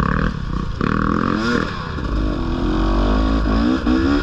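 Dirt bike engine running under throttle while riding, its pitch rising and falling as the throttle is worked, with several short upward climbs in the second half.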